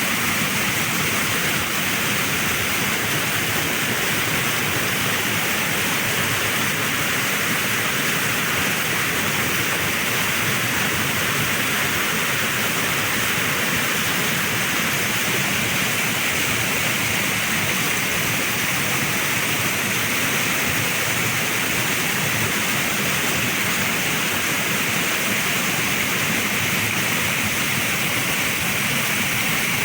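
Water rushing steadily, a continuous even hiss with no breaks.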